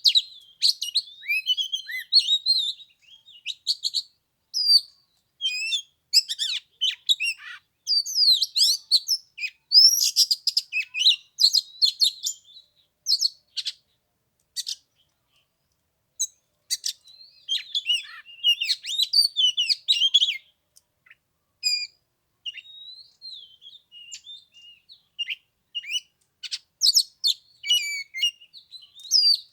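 Oriental magpie-robin singing: a rapid, varied run of clear whistles and chirps in bursts, with a pause of about two seconds midway.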